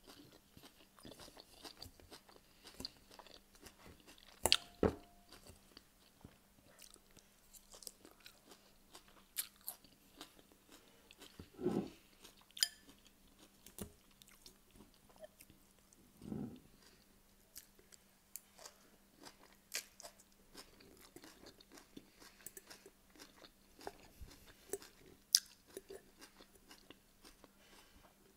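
Close-up crunchy chewing of a raw salad, with scattered sharp clicks of a metal fork against a glass bowl.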